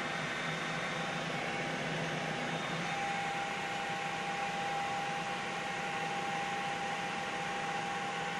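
Helicopter noise heard from inside the cabin: a steady, unchanging hiss with a constant high whine that grows stronger about three seconds in.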